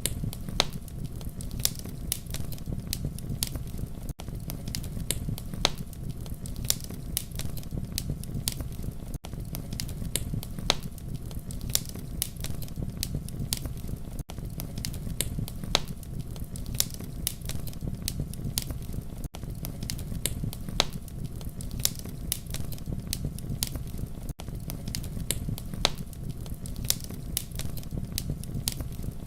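Wood fire burning, with a steady low rumble under frequent, irregular sharp crackles and pops. The sound dips briefly about every five seconds.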